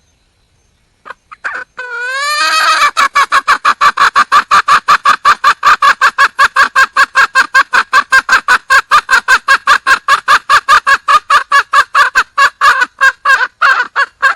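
A wild junglefowl hen calling to attract a male: a few opening notes about a second in, then a fast, even run of clucks at about five a second. The run cuts off suddenly near the end.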